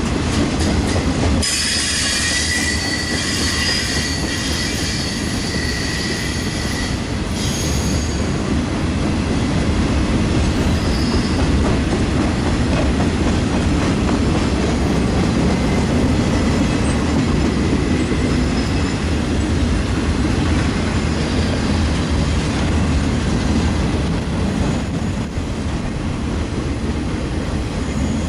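Freight train cars rolling steadily past, steel wheels on rail, with a high wheel squeal that comes and goes.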